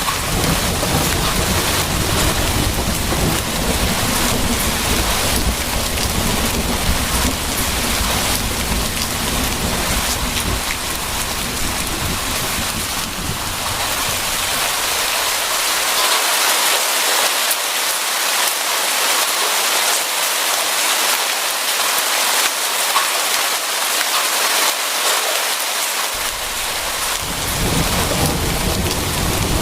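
Steady heavy rain hissing, with low rolling thunder rumbling under it for the first half. The thunder dies away about halfway through and rolls back in near the end.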